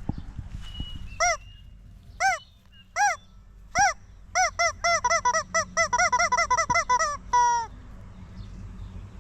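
Goose honking: four single short honks, then a fast excited run of about five honks a second, ending with a drawn-out falling call.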